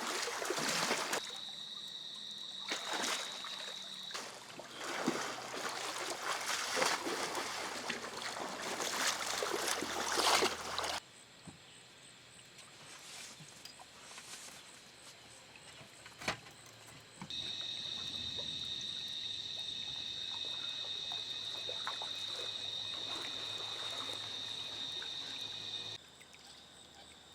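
Water splashing and trickling in uneven gushes for about ten seconds, cutting off suddenly. Later a steady high-pitched whine holds for several seconds, then stops abruptly.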